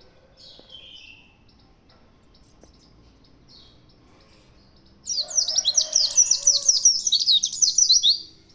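White-eye (pleci) giving soft, scattered chirps, then about five seconds in bursting into a loud, rapid song of quick descending high notes that lasts about three seconds.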